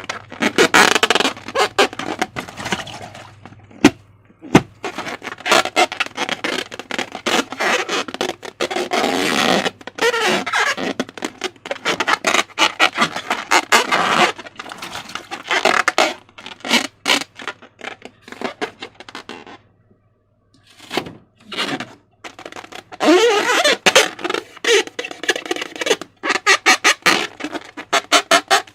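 Slime being squished and stretched by hand: dense, irregular wet crackling and popping that pauses briefly about two-thirds of the way through, with short squeaky squelches near the end.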